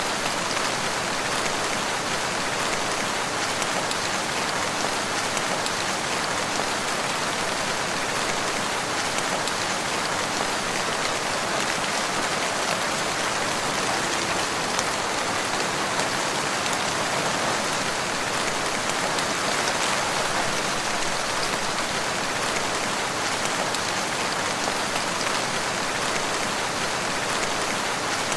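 Steady rain falling on hard surfaces, an even hiss with fine drop patter and no let-up.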